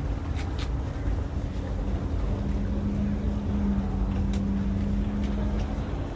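Steady low rumble inside a high-speed train's passenger cabin, with a constant hum under it. A second, lower hum comes in about a second and a half in and drops away near the end, and a few light clicks sound through it.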